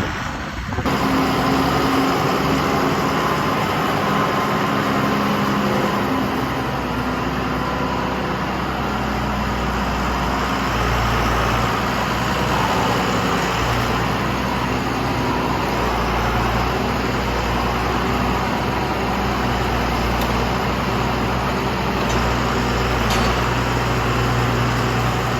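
An engine running steadily with an even, low drone and no change in speed.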